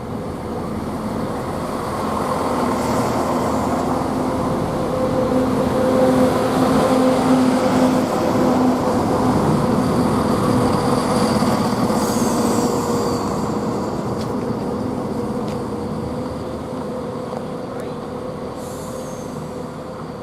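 CrossCountry Class 170 Turbostar diesel multiple unit pulling into the platform: diesel engines running with a steady hum and wheels rolling on the rails. It grows louder to a peak midway, then eases as the train slows and stands.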